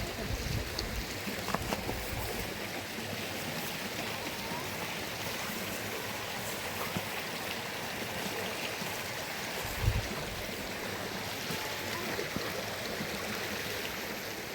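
Steady rushing water noise, with a single low thud about ten seconds in.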